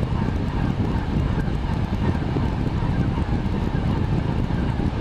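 Steady cockpit noise of a Boeing 767: airflow and engine noise, heaviest in the low range, with a faint steady tone above it.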